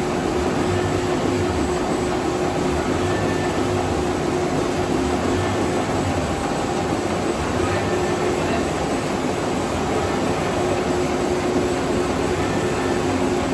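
Nesil-Huada NSL-HD-350 web-fed offset label printing press running steadily: a dense, even machine noise with a few steady tones.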